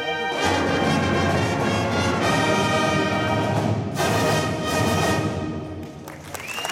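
Marching band playing loud sustained brass chords over percussion. Near the end the music drops away and clapping begins.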